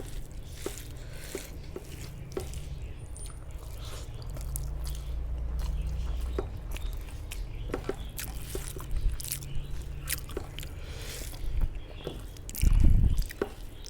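Close-miked chewing and wet mouth sounds of a person eating rice with chicken curry: small smacks and clicks throughout, with a low thud near the end.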